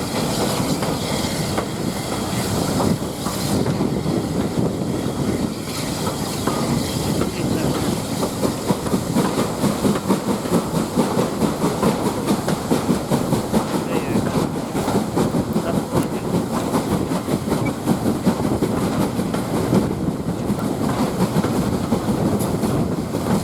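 Heritage railway carriage running along the track behind a steam locomotive: a steady rumble with the clickety-clack of wheels over rail joints. A rapid, even pattern of knocks becomes clearer about ten seconds in.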